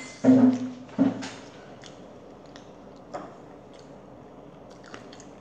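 A child chewing a mouthful of puri (puffed fried Indian bread) with kimchi, mouth closed. Two louder sounds come in the first second and a half, then only faint, sparse chewing clicks.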